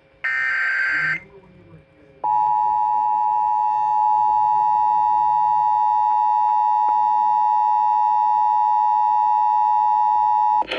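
Emergency Alert System signal on a radio broadcast for a severe thunderstorm warning: the last short burst of the SAME digital header, a buzzing warble, then about a second later the two-tone EAS attention signal, a steady tone held for about eight seconds and cut off sharply near the end.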